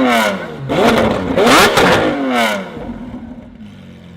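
Supercar engine revved hard in two blips, its pitch climbing and falling back each time, then settling to a much quieter idle about three seconds in.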